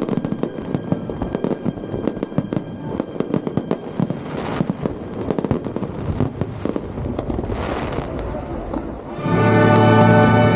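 Fireworks crackling and banging in rapid, dense succession over music, with two brief hissing rushes partway through. About nine seconds in, loud music with long held chords swells up.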